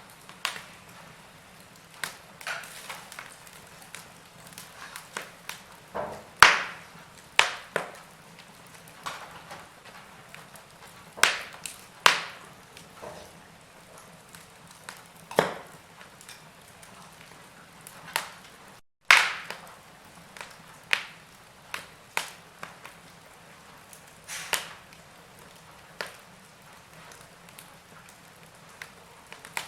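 Wood fire crackling in a fireplace: irregular sharp pops and snaps from burning logs over a soft hiss, a few of them much louder. The sound drops out for a split second about two-thirds of the way through.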